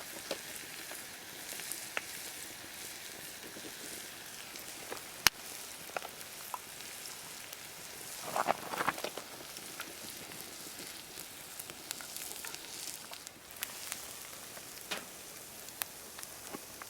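Food frying in a pan over a campfire: a steady sizzling hiss with scattered pops and crackles, one sharp pop about five seconds in and a short louder flurry of crackling a little after eight seconds.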